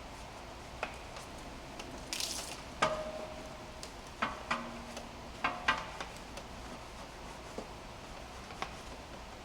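Quiet handling sounds: a scatter of clicks and knocks, some with a short ringing clink, and a brief hiss about two seconds in.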